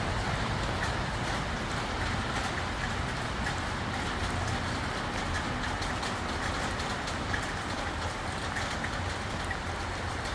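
Train on the move with a steady low rumble and many faint clicks.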